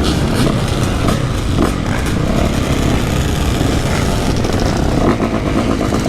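Motorcycle engines running in a group ride, with heavy wind rumble on a helmet-mounted microphone.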